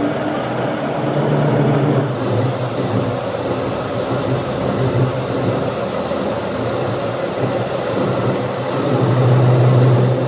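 Workshop machinery running steadily with a low hum that swells briefly near the start and again near the end.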